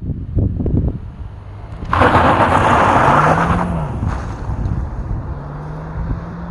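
Kia Ceed's 1.5 T-GDi turbocharged four-cylinder petrol engine pulling hard from a standstill. Its note rises, drops at a gearshift of the seven-speed dual-clutch gearbox, then climbs steadily again. About two seconds in, a loud rushing noise comes in and lasts under two seconds.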